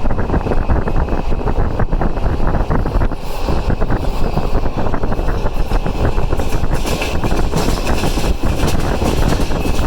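Passenger train on the move, heard from aboard: steady, loud rumble of wheels on rails mixed with rushing wind.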